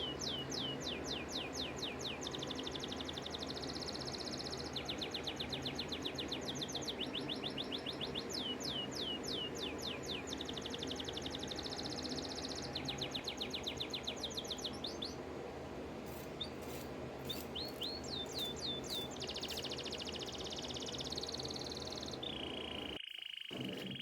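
Bird song: quick runs of downward-sweeping high chirps, about five a second, alternating with held whistled notes, over a steady low background hum. It cuts off abruptly near the end.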